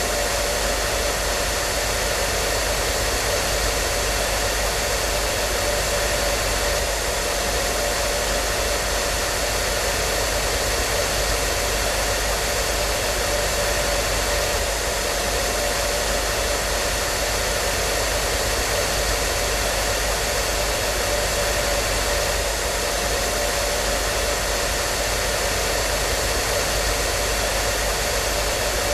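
Hair dryer running steadily: an even rushing blow of air over a constant motor hum, with no change in speed.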